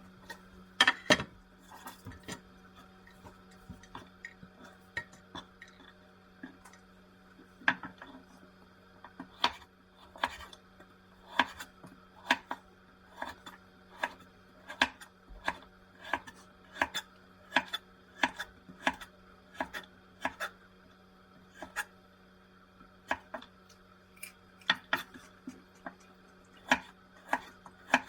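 Knife chopping on a cutting board: a long run of sharp, separate knocks, roughly one a second and sometimes in pairs, over a steady low hum.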